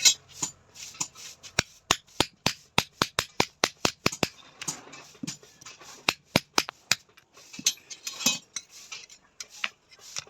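Light hammer taps on steel: a quick run of strikes, about four a second, in the first half, then scattered single taps.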